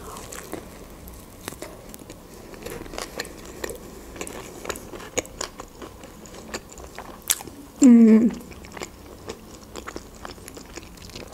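A person biting into and chewing a shawarma close to the microphone: a steady run of soft, wet mouth clicks and small crunches. Just before eight seconds in, a short hum of the voice falls in pitch and is the loudest sound.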